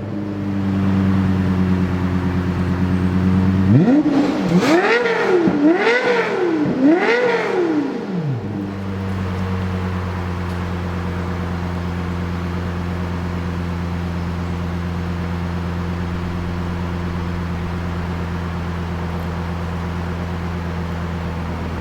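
Lexus LFA's 4.8-litre naturally aspirated V10 idling, then blipped four times in quick succession, each rev rising sharply and dropping straight back, before settling into a steady idle again.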